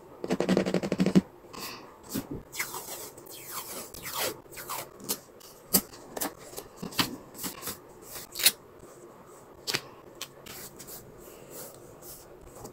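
Hands working with paper and stationery on a journal spread: a fast rattling run in the first second, then scattered taps, clicks, rustles and short scrapes.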